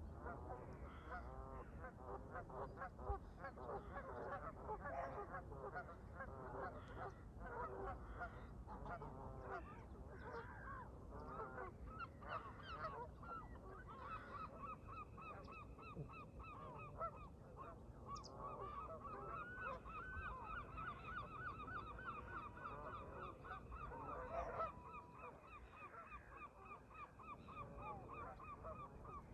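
A flock of Canada geese honking, with many overlapping calls throughout and a quicker, evenly repeated run of calls in the latter part.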